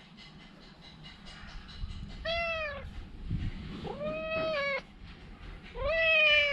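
A black cat meowing three times, each meow rising and then falling in pitch. The last is the longest and loudest.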